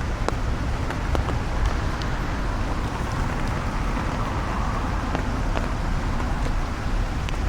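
Steady rain, with scattered drops striking the umbrella overhead as sharp taps and a low wind rumble on the microphone.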